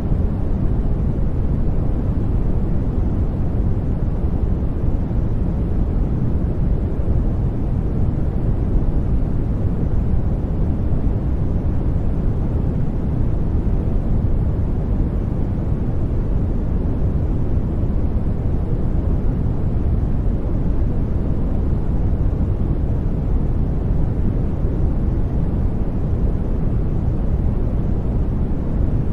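Steady sleep-aid noise, an even hiss heavy at the low end and fading towards the top, with no change in level or character.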